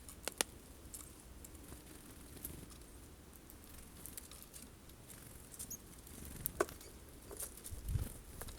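Scattered sharp clicks and taps over a faint background: two close together near the start and a louder one about two-thirds of the way through. These are Eurasian jays pecking at and handling sunflower seeds at the feeder.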